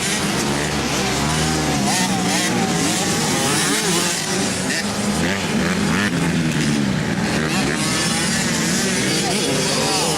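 Several motocross dirt bikes racing, their engines revving up and down through the gears, with several engine notes overlapping.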